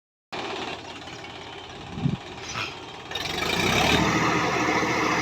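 Tractor diesel engine running at idle, with a brief low thump about two seconds in. About three seconds in it revs up and holds at a louder, higher speed.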